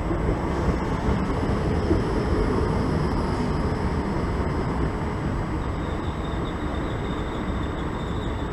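Southern electric multiple-unit train running past along the platform: a steady rumble of wheels on the rails, with a faint high whine coming in a little after the middle.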